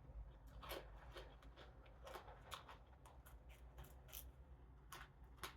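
Faint, close chewing and mouth clicks from someone eating, with scattered soft clicks over near silence.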